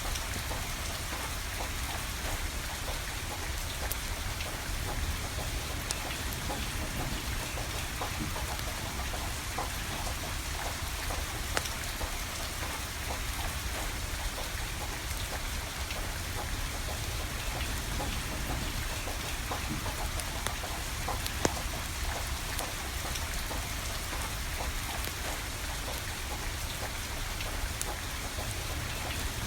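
Steady rain falling, with a wood fire crackling through it and two sharper pops, one a little before halfway and one about two-thirds of the way in.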